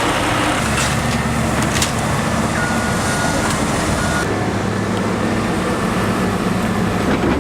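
Heavy vehicle engine running steadily, a low hum whose pitch shifts a couple of times.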